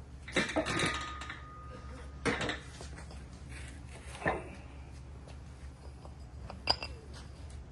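Metal hand tools and mower parts being handled: four separate clanks and clinks, the last a sharp clink with a brief ring.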